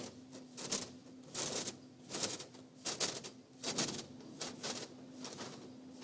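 Automatic car wash working on the car: a rapid, irregular series of swishing, rattling bursts, louder in the middle, over a faint steady hum.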